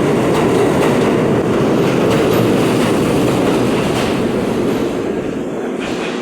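R32 subway train leaving the station: a loud steady rumble of wheels on rail with faint clicks, fading away over the last couple of seconds.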